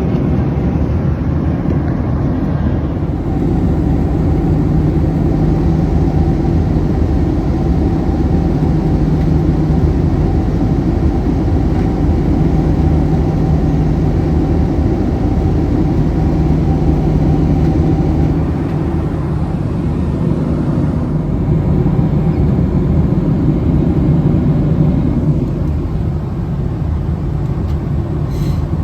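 Steady cabin drone of a Boeing 767-300 with General Electric CF6 engines: engine and airflow noise with a low, even hum running through it.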